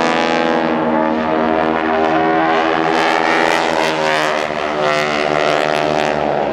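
Boeing Stearman biplanes' radial engines and propellers droning loudly in a low flypast. Their many-toned sound shifts slightly in pitch as they pass.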